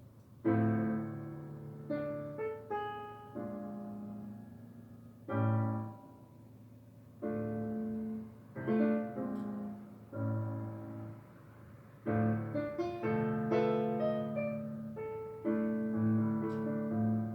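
Background piano music: unhurried phrases of struck chords and melody notes, each note starting sharply and fading away, with short pauses between phrases.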